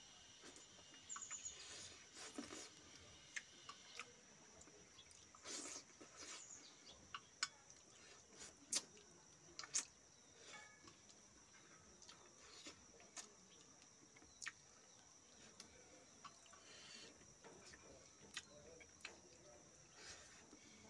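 Faint eating sounds from a person chewing fish eaten by hand: scattered wet smacks and clicks of the mouth and lips, with a faint steady high-pitched tone underneath.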